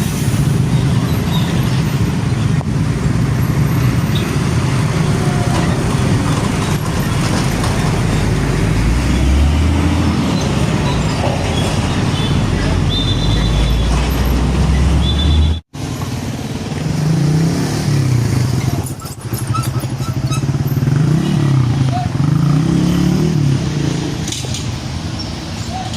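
Large diesel trucks passing in heavy road traffic, a deep engine rumble that swells in the first half. After an abrupt cut about two-thirds through, another truck engine runs with its pitch rising and falling as it changes speed.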